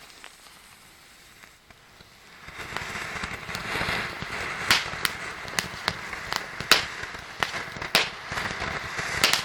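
Bonfire flaring up: about two and a half seconds in, a rushing fire noise swells, with crackling and sharp loud pops and bangs roughly once a second.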